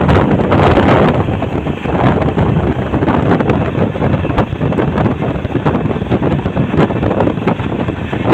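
Wind buffeting the microphone over the rumble and clatter of an express train's wheels on the rails, heard from the side of a coach running at full speed. It is loudest in the first second or so.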